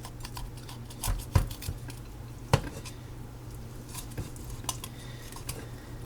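Serving utensils clinking and scraping against a plate and dishes, a handful of sharp clicks with the loudest about two and a half seconds in, over a steady low hum.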